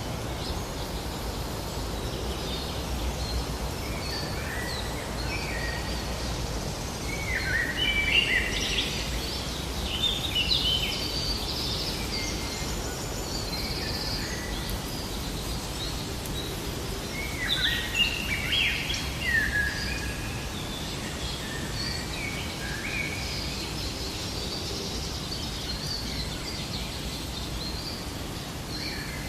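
Birds chirping and singing in short, quick phrases over a steady low background rumble, with two busier bursts of calls, one about a quarter of the way in and one a little past the middle.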